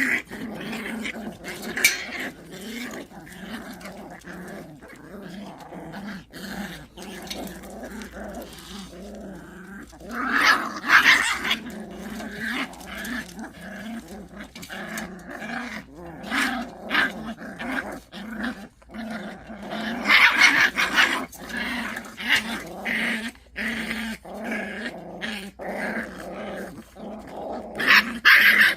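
Pungsan dogs growling at each other in a fight over rank: a continuous low growl with louder, harsher flare-ups about ten seconds in, about twenty seconds in, and near the end.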